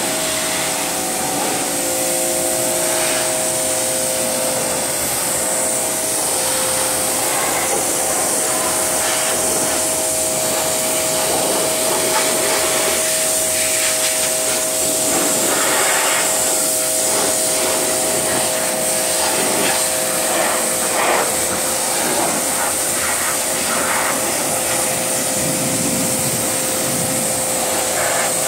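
A motor-driven machine running steadily, giving a constant rushing hiss and an even whine, with irregular scraping and rubbing sounds over it.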